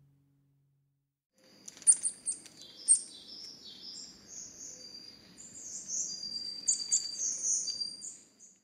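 Songbirds chirping and singing over a faint low outdoor background noise. It begins about a second and a half in with a few sharp chirps and runs into a busier stretch of song.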